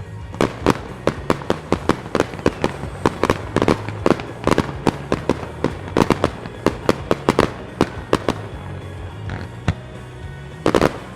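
Starmine fireworks barrage: a rapid volley of sharp shell bursts, several a second for about eight seconds, then thinning out, with a strong cluster of bursts near the end. Music plays underneath.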